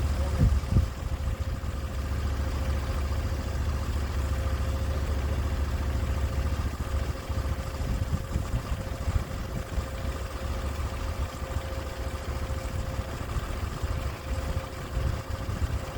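Sawmill engine running steadily, with a constant drone and a steady higher tone over it, and a couple of short knocks about half a second in.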